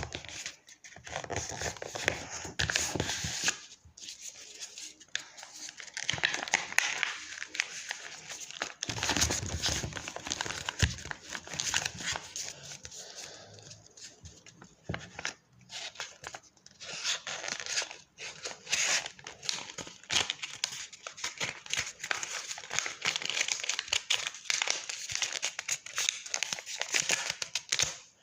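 A sheet of paper being folded and creased by hand, in irregular stretches of crackling handling noise with short pauses between them.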